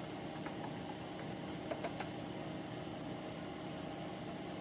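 Electric fan running with a steady hum, drawing off soldering flux fumes, with a few faint clicks about one to two seconds in.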